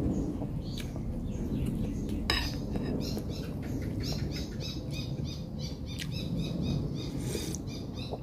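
A bird calling over and over in quick runs of short, high chirps above a steady low background rumble. There is a sharp clink about two seconds in, and soft eating sounds as broth is spooned up and sipped.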